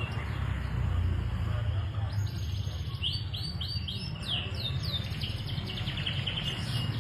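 Domestic canary singing: a fast run of chirps and trills, with a row of quick downward-sweeping whistles about three seconds in, over a steady low rumble.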